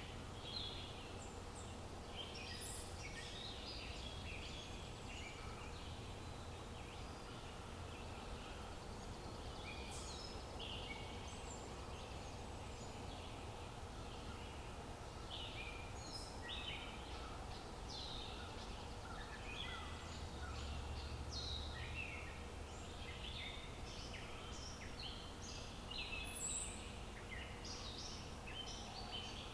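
Birdsong ambience: many birds chirping and singing in short, quick calls throughout, over a steady low rumble.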